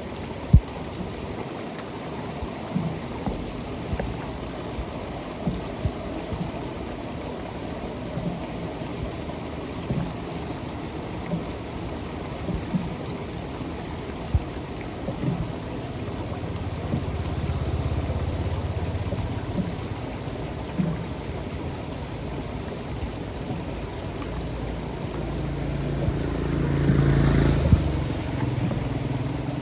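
Rain and water on a flooded street making a steady hiss, with scattered short knocks. A low rumble swells twice, the second louder near the end.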